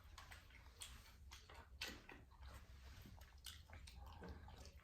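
Near silence with faint chewing: soft wet mouth clicks scattered every second or so.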